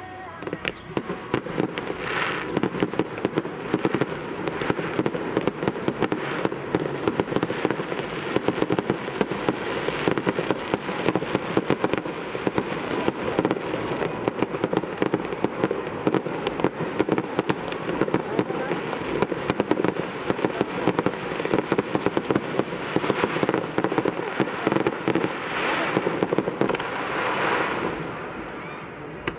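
Aerial firework shells bursting in a dense, continuous barrage, many sharp bangs and crackles every second, heard from across a river.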